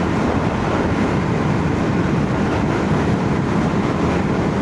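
Steady wind rush and engine drone heard from inside a full-face helmet on a Royal Enfield Shotgun 650 parallel-twin motorcycle cruising at about 70 mph, with a heavy low rumble.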